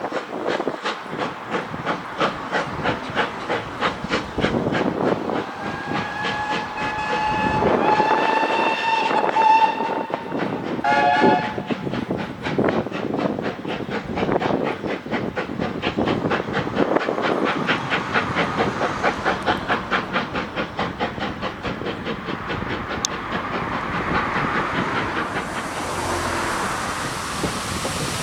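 Train running past with a fast, steady run of rhythmic beats. A whistle is held for about four seconds near the middle, followed by a short second blast. A hiss rises near the end.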